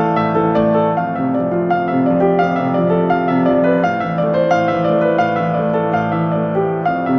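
Soft piano music: a steady run of gently overlapping notes.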